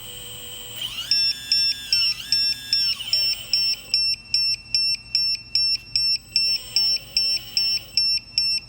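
A small RC hydraulic pump whining, its pitch sweeping up and back down twice as it ramps up and slows. Then a steady electronic beeping starts, about two and a half beeps a second.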